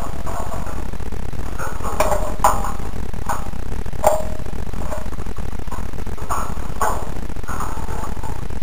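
Birds calling: short, irregular calls, a few a second at times, over a steady low rumble.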